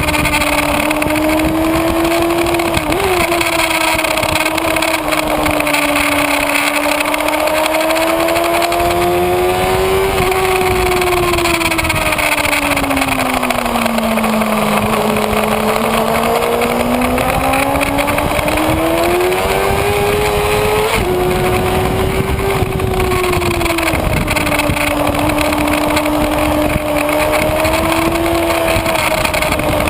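Kawasaki Ninja ZX-6R inline-four engine at speed, heard from an onboard camera with heavy wind rush over the microphone. The engine pitch sags slowly around the middle and climbs again, then drops sharply twice in the last third at upshifts.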